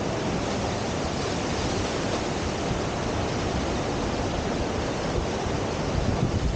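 Steady rush of river whitewater pouring over the standing surf wave, with some wind on the microphone.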